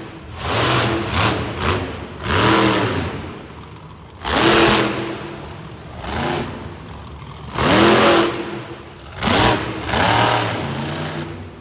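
Monster truck engine being revved in a series of short blips, each rising and falling in pitch, with a rough idle between the revs.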